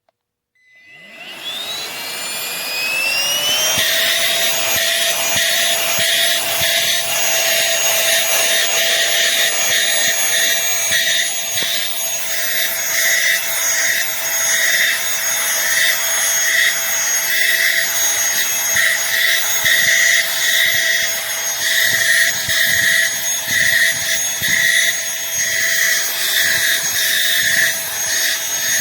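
Aspiron cordless handheld vacuum cleaner switched on: its motor spins up with a whine rising in pitch over the first few seconds, then runs steadily at full speed with a high whine and a wavering hiss of air.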